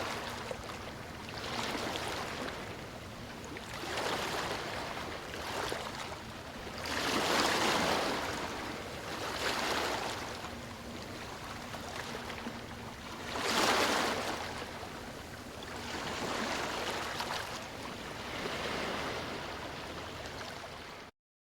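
Sea waves washing onto a beach, swelling and falling back every couple of seconds, with two bigger waves breaking about seven and fourteen seconds in. The sound cuts off abruptly just before the end.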